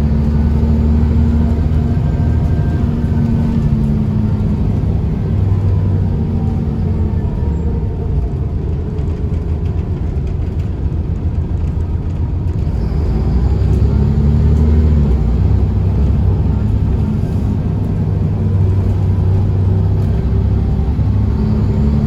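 Scania L94UB bus's DSC9 nine-litre six-cylinder diesel engine running under way. Its note sinks slowly over the first several seconds, then climbs again from about halfway and once more near the end as the bus pulls through its gears.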